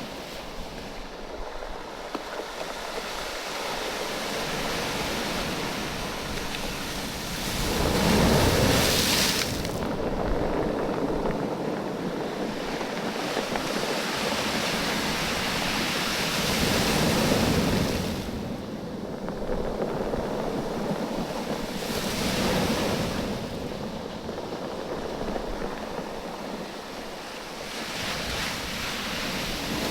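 Waves washing in and drawing back over a beach of rounded oval stones, the stones knocking and clattering against each other as the water moves. Several waves surge in, the loudest about eight seconds in and again near the end.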